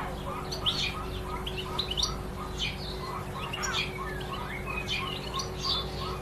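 Many small birds chirping at once in a dense, overlapping chorus of short high calls, with a row of lower notes repeating about three times a second; a faint steady hum sits underneath.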